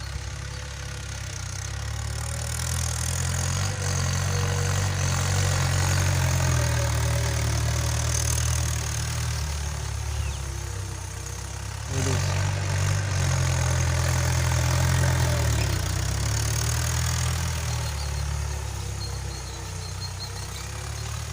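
Tractor engine running as it pulls a plough, with a steady low drone that swells and eases in turn and jumps up suddenly about twelve seconds in.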